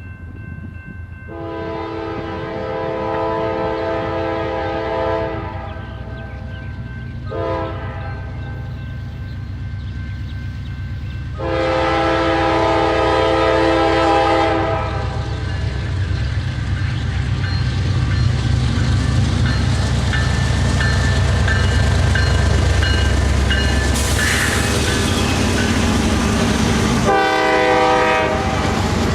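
Diesel freight locomotive's multi-chime air horn sounding a long blast, a short one and another long blast, then one more blast near the end. Under the horn, the locomotive's engine rumble and the rolling noise of the train grow louder as it comes by.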